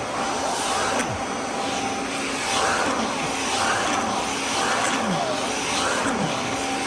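Vacuum cleaner running steadily with a whining motor tone. Its pitch sweeps up and down about once a second as the cleaner is worked back and forth.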